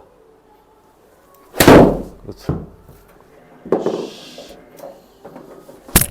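A pitching wedge striking a golf ball: one loud, sharp crack with a short ringing tail about a second and a half in. Softer knocks follow, and a sharp click comes near the end.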